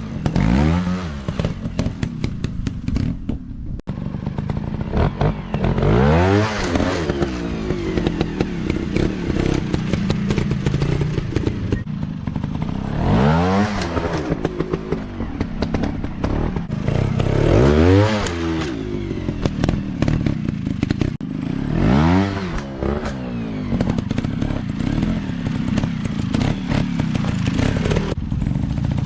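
Dirt bike engines revving up and falling back again and again, about five big rises in pitch, with clattering and knocking mixed in.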